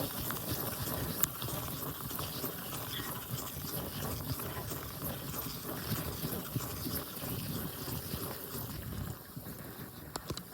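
Heavy rain mixed with hail pattering close by, a dense crackle of many small hits over a low rumble; it eases off near the end.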